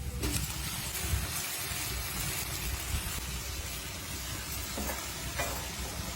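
Food sizzling in a hot pan, a steady hiss, with a couple of light knocks near the end.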